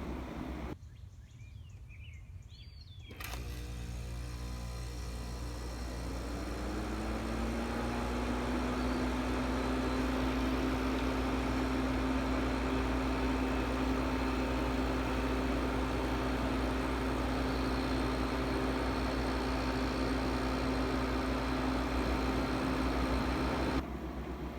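A 1968 General Electric Fashionette 6000 window air conditioner starting up on low cool. Its fan motor hum rises in pitch over a few seconds, then settles into a steady hum with a rush of air, very quiet on low.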